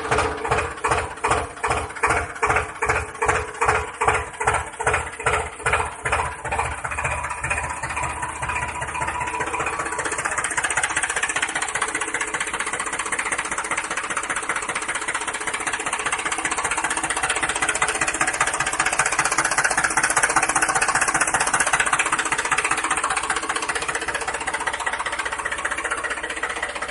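Tractor engine running in slow, distinct firing beats, about two a second, that quicken over the first ten seconds and merge into a steady, even run.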